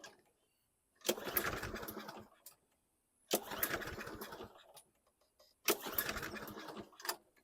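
Toro Recycler lawn mower's engine being pull-started three times, each pull of the recoil starter starting sharply and spinning down over about a second. It cranks without catching, even on a shot of starting fluid.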